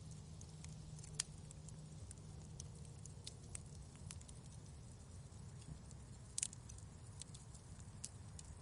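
Wood fire crackling in a fireplace: faint scattered pops and snaps over a low, steady rumble, with two louder pops, one about a second in and one past the middle.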